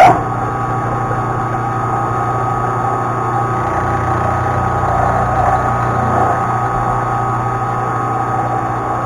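Milling machine running steadily with a steady whine as its end mill cuts a flat on half-inch bar stock. It starts abruptly and stops just at the end.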